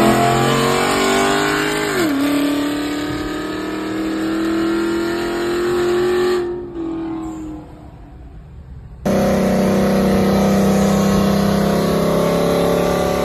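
Car engines accelerating hard in a roll race, heard from inside one car's cabin: the engine pitch rises, drops sharply at a gear shift about two seconds in, then climbs slowly again before fading. An abrupt cut about nine seconds in brings a steady engine drone from another race clip.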